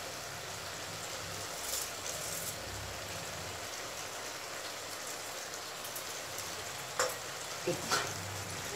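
Small kachki fish and potato curry sizzling steadily in a hot kadai, the curry cooked down nearly dry so the oil hisses. Two sharp knocks near the end.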